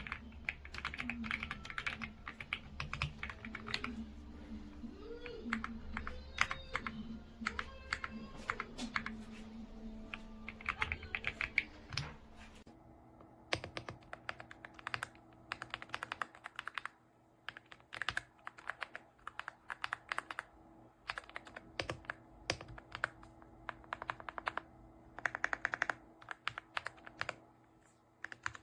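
Typing on an AULA F99 mechanical keyboard with pre-lubed linear switches: fast key clicks and clacks in irregular bursts. About halfway through the background changes and a faint steady hum sits under the keystrokes.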